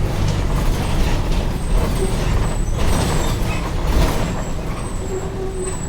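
Mercedes-Benz OF-1722M city bus running, its six-cylinder diesel engine giving a steady low drone, with short air hisses about three and four seconds in.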